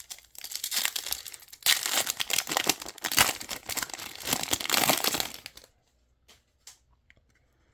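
Trading-card pack wrapper being torn open and crinkled in the hands, a dense crackling that lasts about five seconds and then gives way to a few faint ticks.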